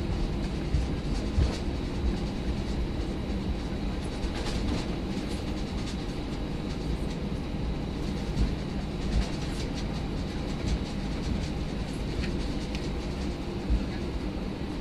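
Airbus A319 cabin noise heard from the front row: a steady rush of engine and air noise with low hum, broken by a few irregular knocks and bumps.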